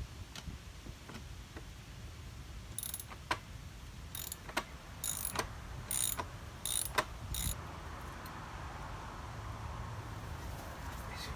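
A run of sharp metallic clicks and clinks, about eight over a few seconds and bunched in the middle, over a low steady rumble. This fits hand tools or parts being handled during work on a small mower.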